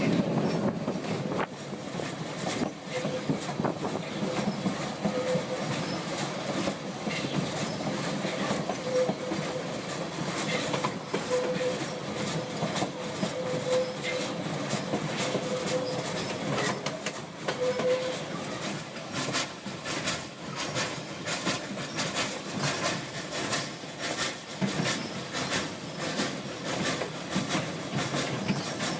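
Vintage steam train running along the track: wheels clattering and clicking over the rails, with a wheel squeal that comes and goes through the first half.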